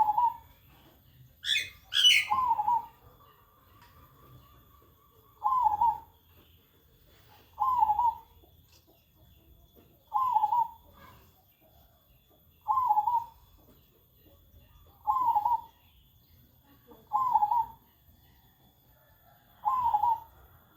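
Zebra dove (perkutut) cooing, the same short phrase repeated about every two to three seconds, nine times. Between the first two phrases there is a sharp double click or knock, the loudest sound here.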